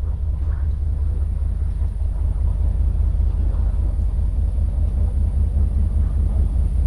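Steady low rumble of outdoor street ambience, with a faint steady high hiss above it.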